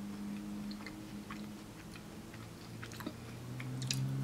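Someone chewing french fries: scattered soft, wet mouth clicks over a steady low hum.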